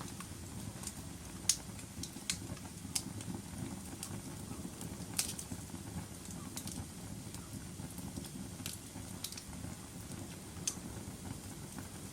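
Wood fire burning in a fireplace, crackling: irregular sharp pops and snaps over a low, steady rumble of flame, the loudest pop about a second and a half in.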